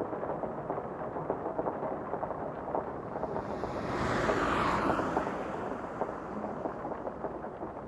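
Crackling, hissing noise texture with scattered clicks, swelling into a broad whoosh about halfway through and then falling back.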